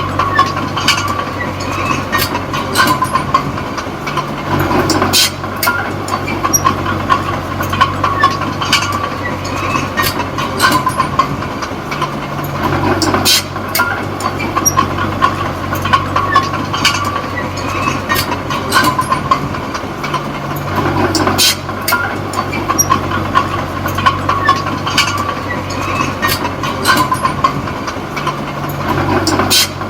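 Diesel engine of a D20P small bulldozer running while the machine works, its note changing in a repeating cycle about every eight seconds, with frequent sharp metallic clanks from the tracks and blade.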